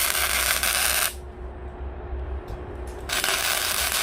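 Two bursts of harsh metal scraping, the first lasting about a second, the second about a second near the end.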